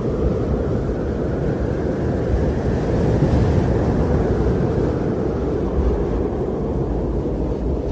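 Steady deep wind rumble, a low dull rushing that swells slightly a few seconds in.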